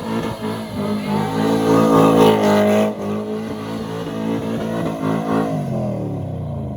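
Car engine revving hard, loudest about two to three seconds in, then the revs fall away near the end.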